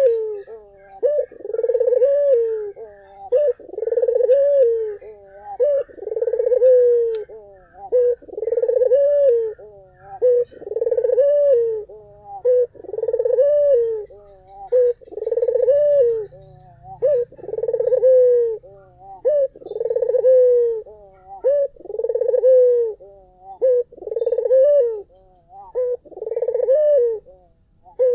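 A puter (ringneck dove) cooing over and over: a steady run of rounded coos, about one every second and a quarter, each rising slightly and then falling away.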